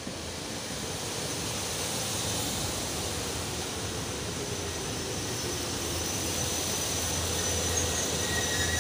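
SEPTA Silverliner IV electric multiple-unit train passing close by: a steady rush of wheels and car bodies on the rails over a low hum, growing louder throughout.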